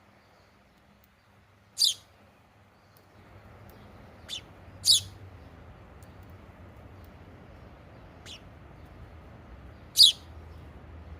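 A small bird giving single short, sharp, high chirps, five in all with several seconds between them, three loud and two faint. A low steady background hiss comes in about three seconds in.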